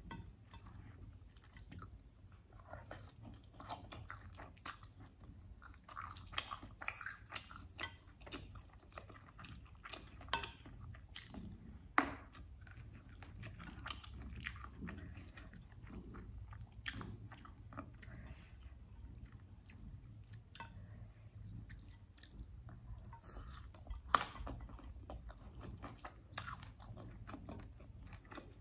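Close-miked chewing and biting of chicken wings, with scattered small crunches and mouth sounds. Sharp clicks stand out about twelve seconds in and again near twenty-four seconds.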